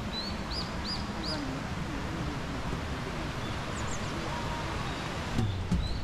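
A small bird chirping: three quick arched chirps about half a second apart near the start and a fainter, higher call about four seconds in, over a steady outdoor hiss. Background music begins just before the end.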